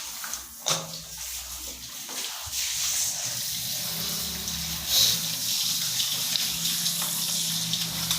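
Running water splashing steadily while a dog is bathed, with a low steady hum underneath.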